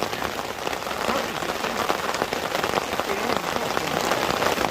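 Heavy rain chucking it down, a steady hiss of dense drops striking the surfaces around the microphone.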